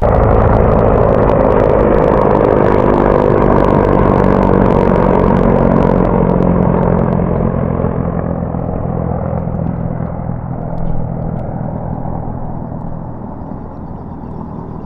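Motor vehicle engine running steadily as it moves off, with some crackling road noise, gradually fading over the second half.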